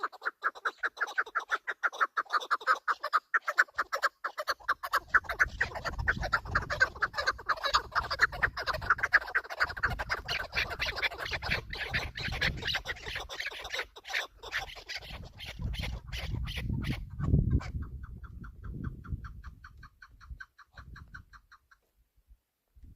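Chukar partridge calling: a long, rapid run of clucking chuck notes, then a quieter, evenly spaced series near the end, over a low rumble in the middle.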